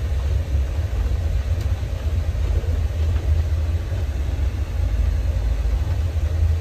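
Steady low rumble of a moving passenger train, heard from inside the coach compartment.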